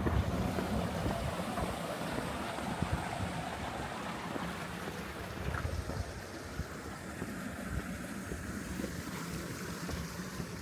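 Wind buffeting the microphone in low gusts over the steady rush of a flowing stream; the water noise fades somewhat about six seconds in.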